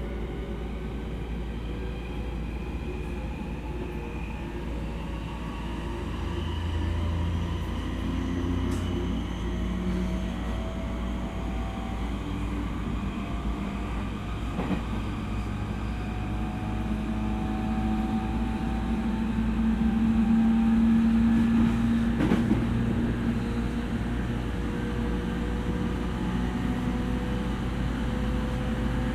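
JR E231 series electric commuter train running at speed, heard from inside the car: rumble of wheels on rail under several motor tones that slowly shift in pitch. The sound grows louder toward the middle, with a sharp click about two-thirds of the way through.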